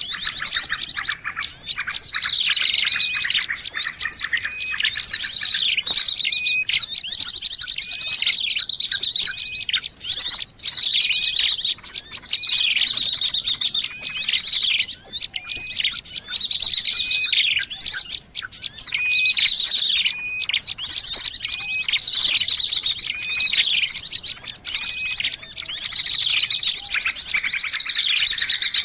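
Lure-call recording of small songbirds: a dense, continuous chorus of high chirps, fast trills and short rising-and-falling whistles, with the same phrases coming back every few seconds. It is played to draw small birds in for trapping.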